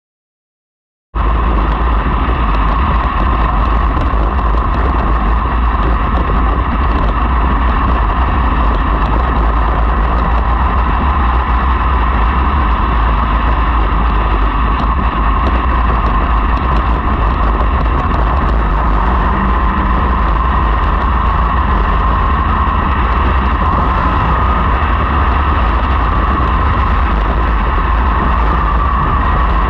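Loud, steady engine noise of sprint cars running around a dirt oval. It starts abruptly about a second in after silence.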